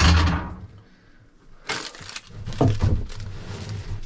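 Clutter being handled and thrown out: a loud clatter at the start, then rustling and knocking from a little under two seconds in.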